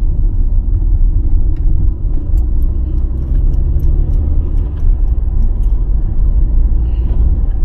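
A car being driven: a steady low rumble of engine and road noise, with faint light ticks and rattles over it.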